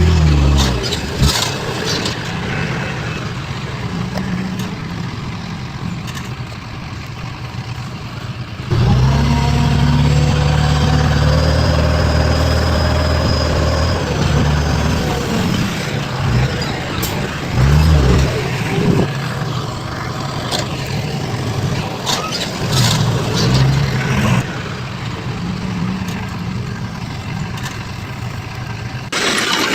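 Heavy machinery engines running on a work site, with a louder stretch of low engine drone for several seconds about a third of the way in. The sound changes abruptly a few times, as from one clip to the next.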